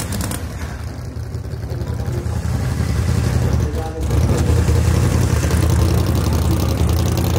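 Drag race car engine running with a deep, steady rumble, growing louder about four seconds in.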